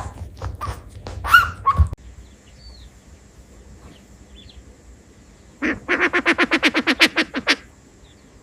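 Knocking and rustling for about two seconds, then a pause with faint chirps. Near the end, a bird, most likely a duck, gives a rapid run of about eighteen quick, evenly spaced calls lasting two seconds.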